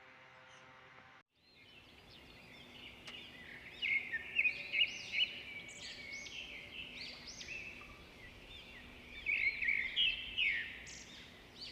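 Many caged pet parrots chirping together in dense, overlapping high-pitched calls, with louder bursts twice. Before the chirping there is a brief steady hum that cuts off abruptly about a second in.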